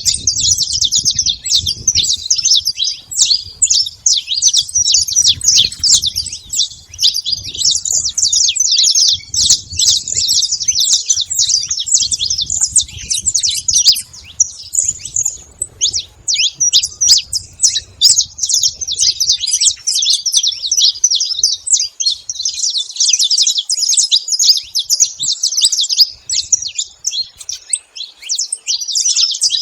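Saffron finch singing: rapid high chirping notes strung together in long, near-continuous phrases with only brief pauses.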